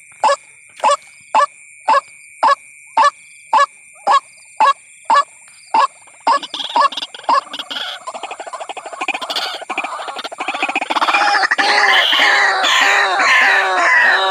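White-breasted waterhen calls used as a trapping lure: short calls repeated evenly about twice a second, then breaking into a rapid, overlapping chorus of calls that grows louder about halfway through. A steady high whine runs underneath.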